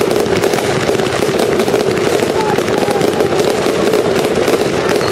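Fireworks crackling in a dense, continuous stream of rapid small pops, with no single big bang.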